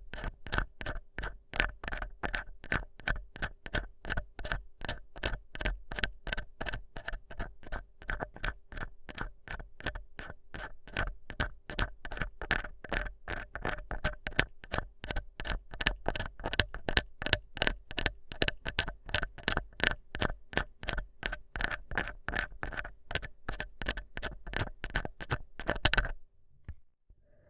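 Ear-cleaning ASMR sounds: an ear pick scraping in quick, even strokes, several a second, which stop suddenly near the end.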